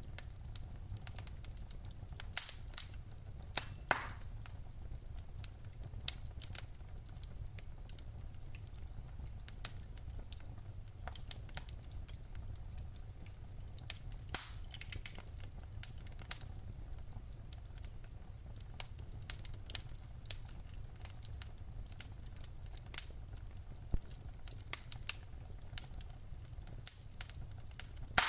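Wood fire burning in a fireplace: irregular crackles and snaps of burning logs over a steady low rumble of the flames, with a few louder pops.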